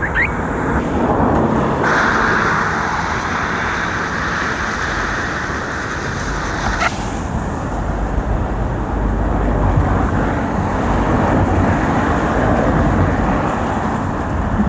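Steady rush of road and traffic noise heard from a moving bicycle, with a brief rising squeak right at the start and a short sharp tick about seven seconds in.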